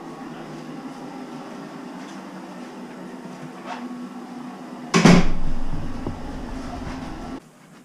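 A single loud knock, like a cupboard or door banging shut, about five seconds in, over a steady background hum; the sound cuts off abruptly near the end.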